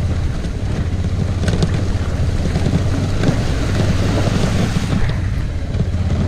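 Suzuki V-Strom adventure motorcycle riding through a shallow creek, its V-twin engine running steadily under the splash and wash of water around the wheels.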